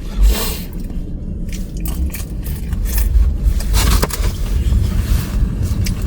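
Low road rumble inside a moving car's cabin, with a few short scraping, rustling noises over it.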